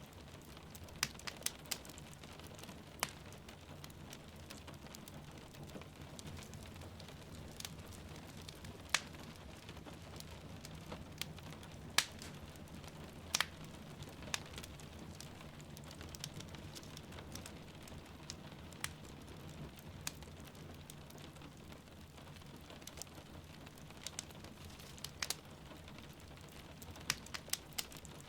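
Wood fire crackling and popping in a fireplace, sharp irregular pops over a steady rain hiss and low rumble.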